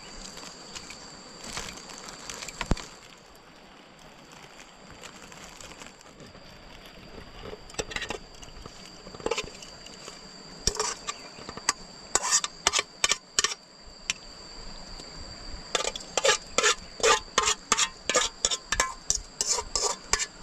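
Runs of sharp knocks and clacks, about three a second, starting about eight seconds in and densest near the end, over a steady high drone of insects.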